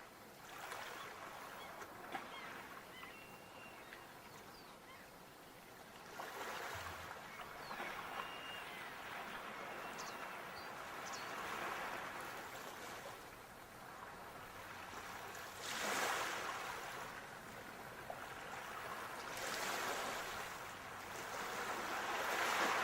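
Sea waves breaking and washing on the shore, the surf swelling and falling back every four to five seconds, with the strongest surges about two-thirds through and again at the very end.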